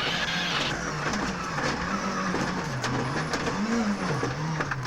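A rally car's engine revving hard, its pitch rising and falling again and again as the car is driven flat out through a stage, with scattered sharp clicks over it.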